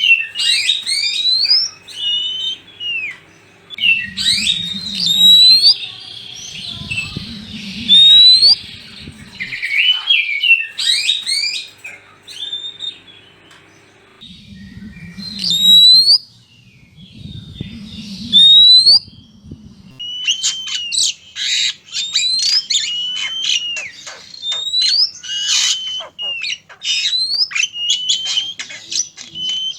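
Oriental magpie-robins singing and calling: loud, varied whistled phrases with sweeping and harsh notes. After about 20 s the phrases give way to a fast run of short chattering notes. Low rumbling noise comes and goes twice underneath.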